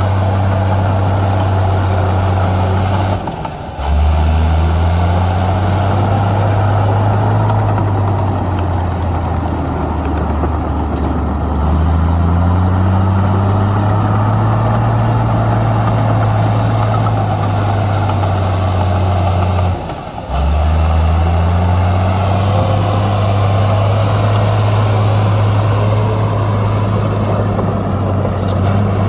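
Heavy diesel engine of earthmoving equipment running under load. Its low pitch drops and climbs again several times, with two brief breaks in the sound about 3.5 and 20 seconds in.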